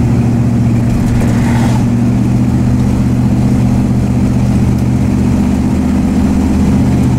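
1966 Dodge Dart GT's engine running steadily as the car drives along, heard from inside the cabin.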